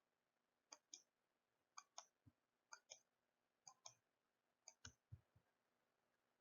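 Faint, sharp clicks in pairs: five double clicks about a second apart, with a few soft low thumps near the end.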